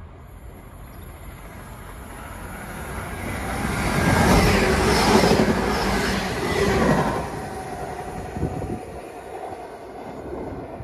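Class 195 diesel multiple unit passing, its engine and wheel noise swelling to a peak about four to seven seconds in and then fading away, with a couple of sharp knocks as it goes.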